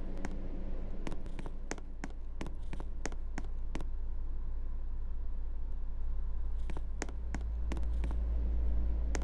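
Ceiling fans running with a steady low hum and rumble, with scattered irregular clicks and ticks.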